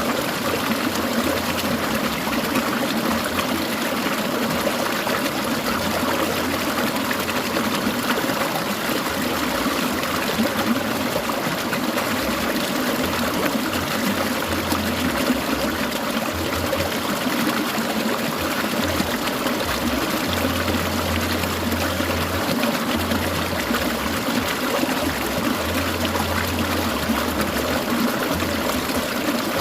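Clear mountain stream trickling and burbling over rocks, steady and unbroken.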